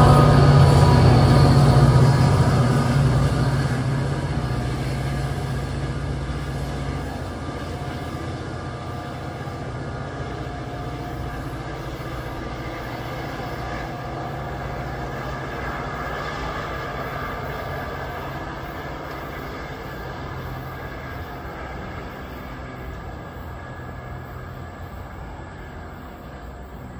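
NJ Transit commuter train running past and pulling away. It is loudest at first and fades steadily over the first several seconds, leaving a lower, fainter running sound.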